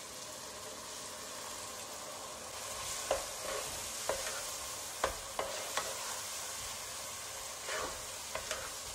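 Pickle mixture of spices, dates and raisins sizzling in hot oil in a nonstick pot as water is poured in. From about three seconds in, a wooden spatula stirs it, with a series of sharp taps and scrapes against the pot.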